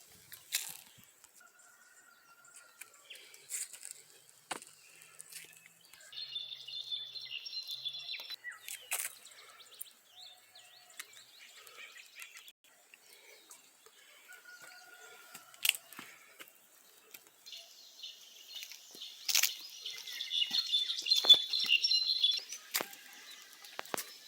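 Birds chirping in two stretches of rapid high twittering, the second longer, with scattered sharp clicks and crackles in between.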